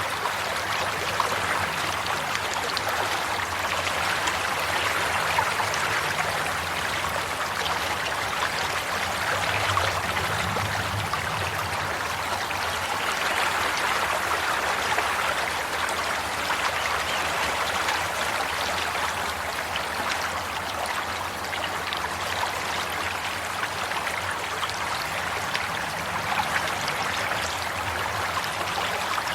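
Water running steadily in a stream, an even rush with fine trickling and splashing.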